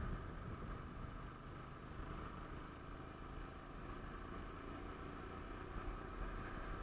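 Motorcycle engine running steadily under way, with a low rumble.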